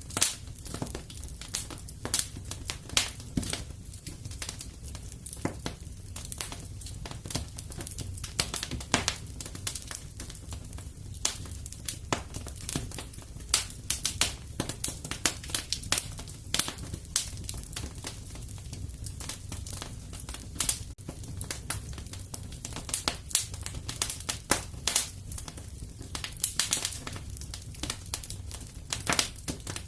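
Fireplace fire crackling: a dense, irregular run of snaps and pops over a steady low rumble.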